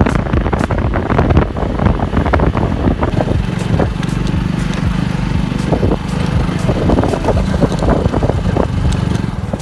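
Motorcycle engine running while riding, with wind buffeting the microphone and scattered knocks and rattles; the engine hum steadies a few seconds in.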